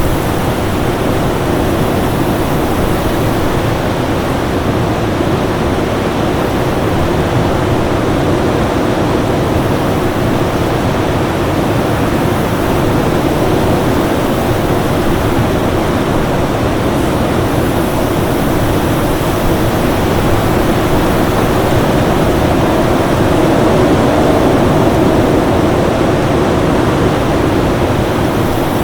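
Winter storm ambience: a steady, dense rush of wind noise that swells slightly a little past twenty seconds in.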